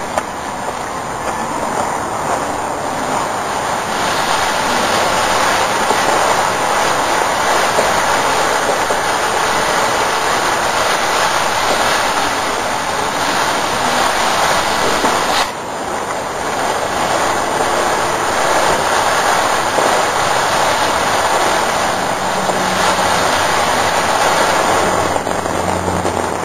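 Ground fountain firework hissing and crackling in a dense, steady rushing spray that drops briefly about halfway through and then picks up again.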